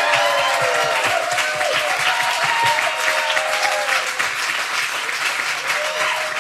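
A group of people clapping steadily, with whoops and cheers rising and falling over the clapping.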